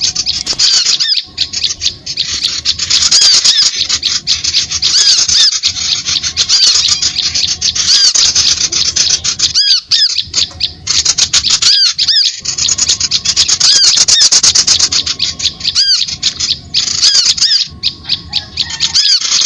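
Bird-lure recording of harsh, scratchy bird chatter: a fast, dense run of rasping ticks and short high notes, broken into bouts by brief pauses every few seconds.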